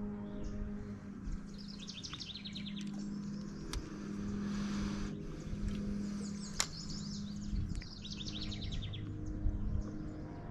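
Songbirds singing short phrases of rapid high notes, a new phrase every few seconds, over a steady low hum. Two sharp clicks fall about four and seven seconds in.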